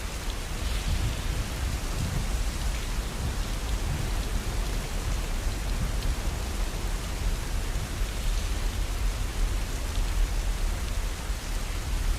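Steady rain falling, with a low rumble underneath and a few faint crackles from a wood fire in a fireplace.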